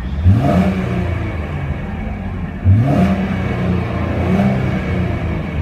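A Chevrolet Camaro's 3.6-liter V6 revved while standing still: two quick revs, the engine note climbing sharply each time before settling back toward idle, then a softer third rev near the end.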